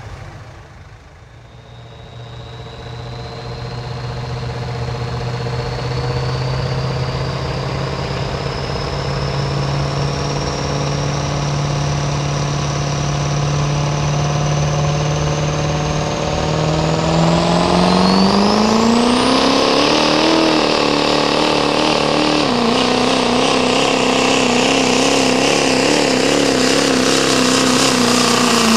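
Diesel pulling truck making its pull under heavy load, the engine growing louder over the first few seconds while a turbocharger whistle climbs steadily in pitch. About 17 seconds in the engine revs rise sharply, then hold high to the end.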